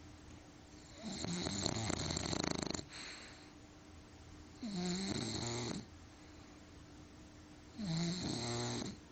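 English bulldog snoring in its sleep: three snores, each one to two seconds long, coming about every three and a half seconds, with quiet breathing pauses between.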